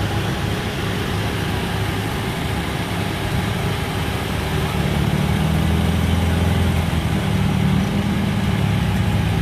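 Motor vehicle engine running steadily at low revs, with a deep hum that grows louder about five seconds in.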